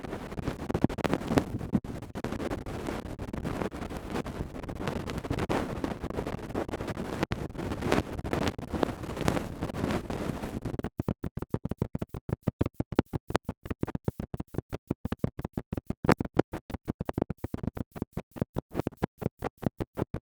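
ASMR ear-cleaning tools scratching and rubbing in a microphone's ear: a dense, continuous scratching for about the first half, then rapid separate strokes several times a second.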